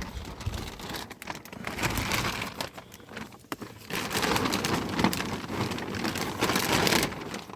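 Water pattering and splashing on plastic tarp sheeting, with the plastic crinkling; it grows louder about four seconds in.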